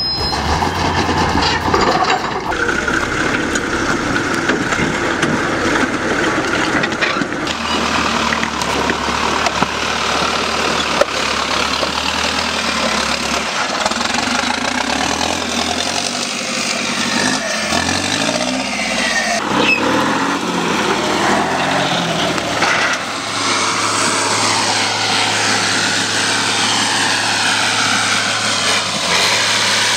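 Trial truck's diesel engine running under load, its pitch dropping and rising as the throttle is worked about halfway through and again towards the end.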